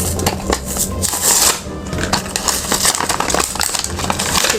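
Toy packaging being opened by hand: irregular crackling, crinkling and clicking of plastic and cardboard, over background music.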